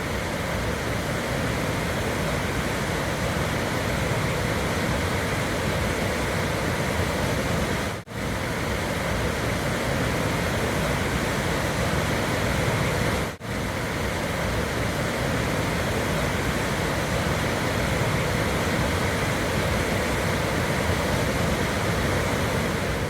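Wapta Falls, a wide waterfall, heard up close as a loud, steady rushing noise, heavy in the low end. The sound drops out for an instant twice, about eight and thirteen seconds in.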